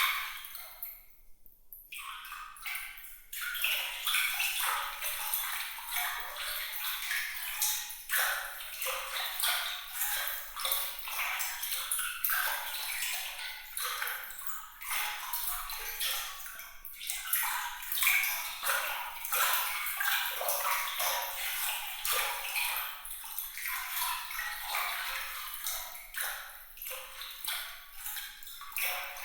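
Moving water with a bright, sparkling, glittering quality: a constant flicker of small splashes and high plinks, dipping briefly about a second in and then running on.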